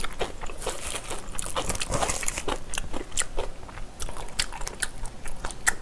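Close-miked chewing and biting: a person eating a mouthful of food, with a dense run of small wet clicks and crackles.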